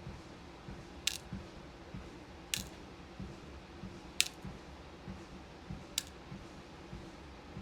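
Footsteps on a walking pad treadmill, soft even thuds about twice a second over the low hum of its motor. A sharp, small click sounds about every second and a half, five times in all.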